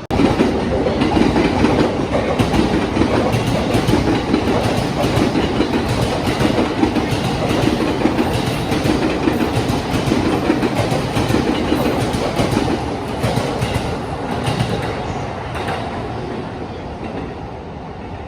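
Electric train running past close by on the station track, its wheels clattering over the rail joints. The noise starts abruptly and eases off over the last few seconds as the train draws away.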